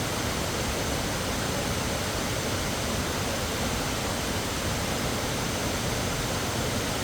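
Steady rush of falling water from Thomson's Falls, a constant even hiss and rumble with no breaks.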